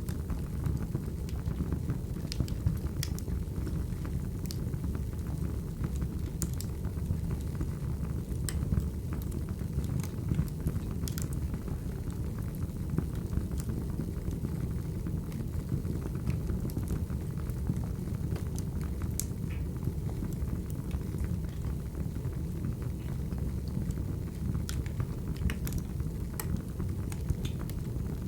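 Wood fire burning: a steady low rumble of flames with scattered sharp crackles and snaps from the burning logs.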